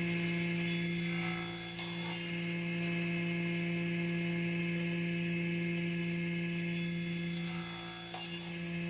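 An electric power tool's motor running at a steady speed: a constant hum with overtones, dipping slightly twice.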